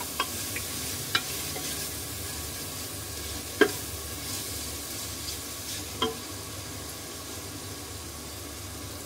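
Minced goat meat with tomatoes and spices sizzling in oil in an aluminium pressure cooker, stirred and scraped with a spatula that knocks against the pot four times, loudest about three and a half seconds in. The mixture is at the end of its frying, with the oil separating from the masala.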